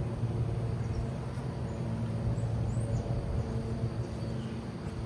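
Steady droning hum of a mass of honey bees from the swarm being worked, with a few faint bird chirps above it.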